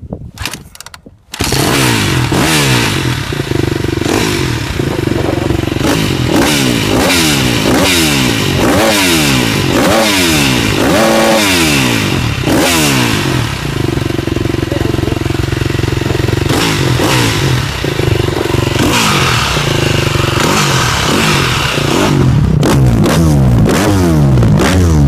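Freshly rebuilt KTM 250 SX-F's single-cylinder four-stroke engine catching about a second in, then revved again and again in quick throttle blips that rise and fall, with a few stretches held at steady revs; the engine runs sweet.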